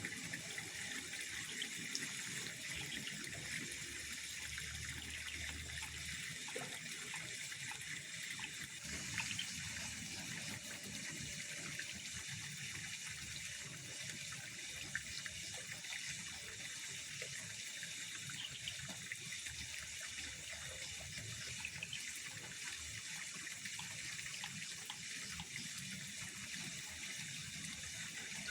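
Steady running, trickling water, an even hiss with faint small ticks through it.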